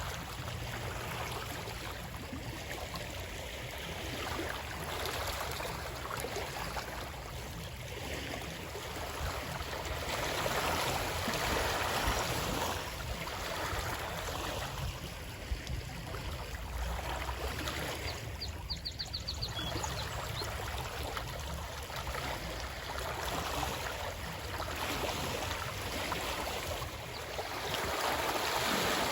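Running water of a stream: a continuous rushing and gurgling that swells and eases every few seconds. A brief run of faint high ticks comes about two-thirds of the way through.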